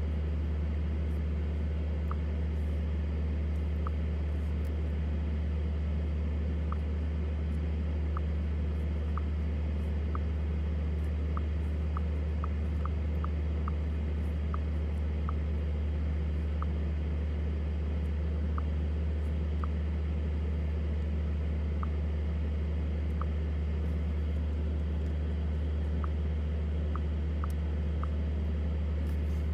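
2023 BMW X7 40i driving at a steady speed: a constant low drone of road and engine noise with no revving.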